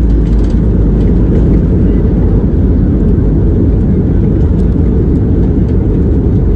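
Boeing 737 MAX 8 on its landing, heard inside the cabin: a loud, steady low rumble of engine and airframe noise.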